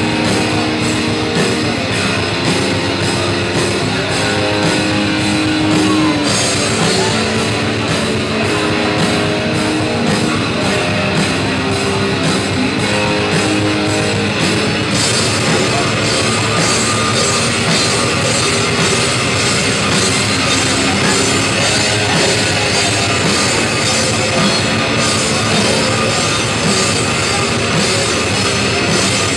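Death metal band playing live: heavily distorted guitars holding low riff notes over drums, the cymbals and drumming getting denser about halfway through.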